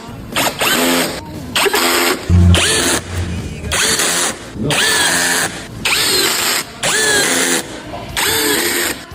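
Power drill running in repeated short bursts, about eight of them, each spinning up and winding down.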